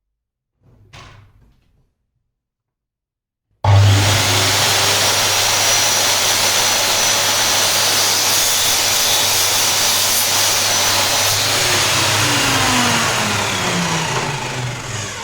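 Electric mitre saw switched on suddenly about three and a half seconds in, its motor running loud and steady as it cuts a hardwood stick to length, then winding down with a falling whine near the end.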